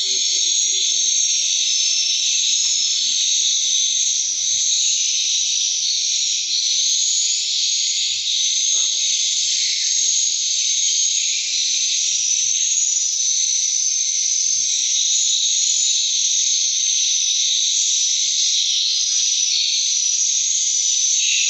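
Dense, unbroken chorus of swiftlet twittering: many high, rapid chirps overlapping in a steady wash.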